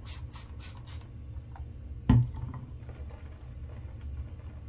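Quick scraping strokes against lathered skin during a wet shave, about four a second, stopping about a second in. About two seconds in there is a single sharp knock, then a few faint strokes over a low steady hum.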